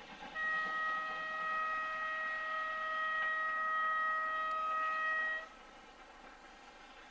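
Locomotive whistle blowing one steady, unwavering note for about five seconds, then cutting off sharply.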